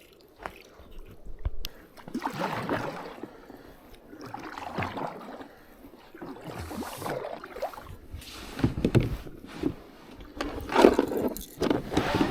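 Kayak paddle dipping and pulling through the water, a swell of splashing about every two seconds, with a few light knocks in between.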